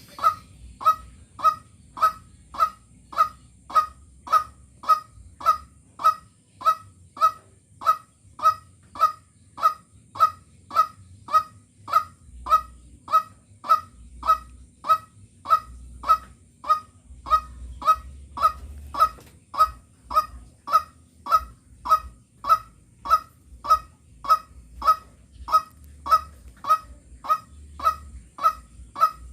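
A bird calling one short, harsh, honking note over and over at a very even pace, about three calls every two seconds.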